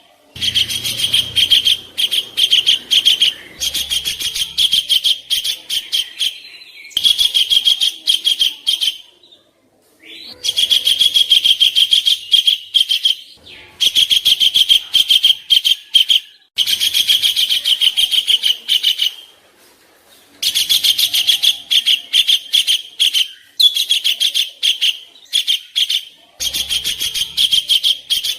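Songbird giving rapid, harsh chattering trills in repeated bursts of one to three seconds with short pauses between: the rough 'kasaran' song used as a training recording for contest birds.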